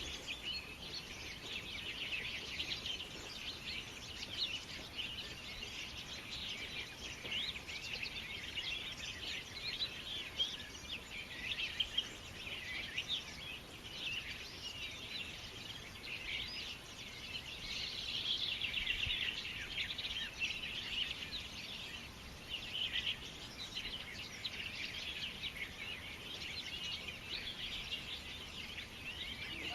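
Many small birds chirping at once in a dense, continuous chorus, swelling a little past the middle.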